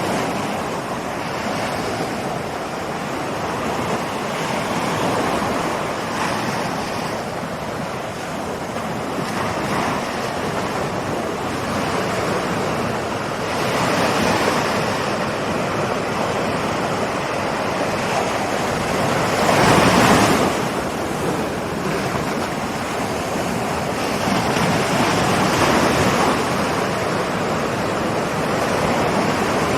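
Ocean waves rolling in and breaking on the shore, a continuous wash of surf that swells and eases every few seconds, with one louder breaker about twenty seconds in.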